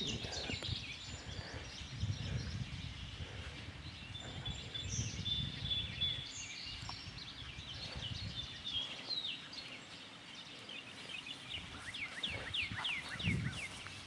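Songbirds chirping and calling in short, scattered, high notes. Near the end comes a quick run of downward-sweeping chirps, about four a second. A low rumble runs underneath.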